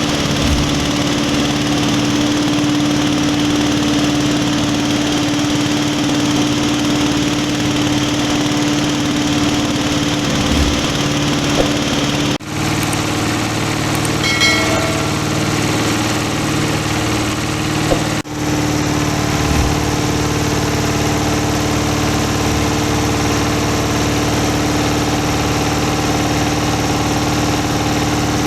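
Rice-husk grinding mill running steadily, its motor and grinder giving a continuous mechanical drone with a steady hum, broken briefly twice.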